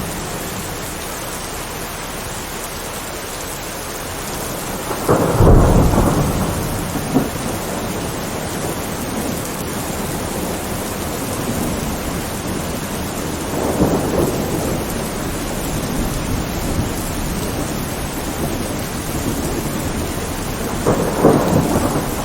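Steady heavy rain with thunder: a loud rumbling clap about five seconds in, a lighter rumble midway, and more rumbling near the end.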